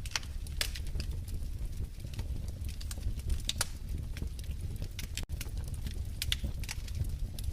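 Wood fire crackling in a fireplace: irregular sharp pops and snaps over a steady low rumble. The sound cuts out for an instant just past the middle.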